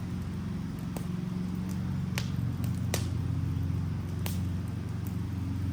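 Wood fire of a burning Adirondack chair, with a steady low rumble under sharp crackles and pops, four loud ones about a second apart and fainter ticks between.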